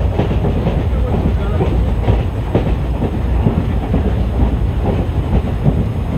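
Running noise of a moving ICF passenger coach: a steady low rumble of wheels on rail, with irregular clanks and rattles as the wheels pass over rail joints.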